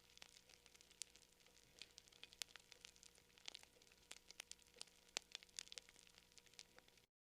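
Wood fire crackling: irregular sharp pops and snaps over a faint hiss, cutting off to dead silence near the end.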